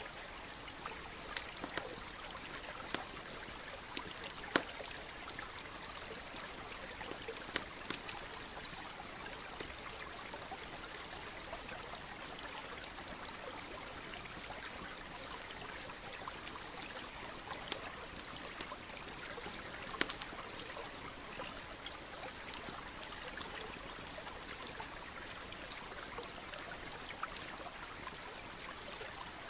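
Campfire crackling, with irregular sharp pops scattered through it, over the steady rush of a nearby stream.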